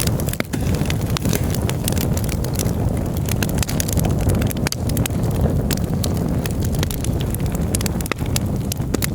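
Campfire crackling, with frequent sharp, irregular pops and snaps over a steady low rumble.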